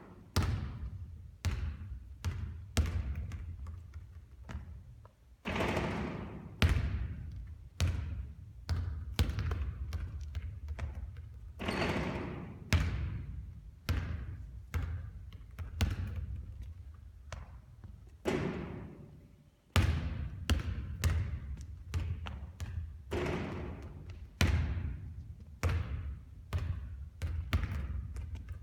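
Basketball bouncing again and again on a court, each thud echoing, in uneven runs of bounces with a few louder, longer hits spread through.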